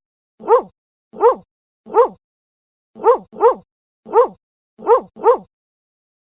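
A dog barking eight times in an uneven rhythm, some barks coming in quick pairs, then stopping about five and a half seconds in.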